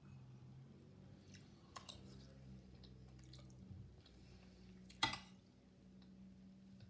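Quiet room with a steady low hum, a few faint clicks, and one sharper knock about five seconds in.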